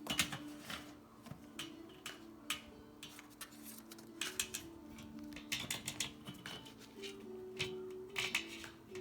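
Umbrella cockatoo's beak crunching and tearing at material, an irregular scatter of sharp clicks and cracks, some in quick clusters. Soft background music with slowly changing notes underneath.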